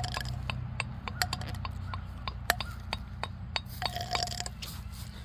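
Irregular light clicks and taps of small hard objects, a few of them ringing briefly like a clink.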